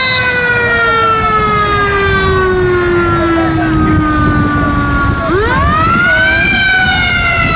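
Fire engine siren wailing, its pitch sliding slowly down for about five seconds, then sweeping back up and starting to fall again. A low rumble of wind or traffic noise runs underneath.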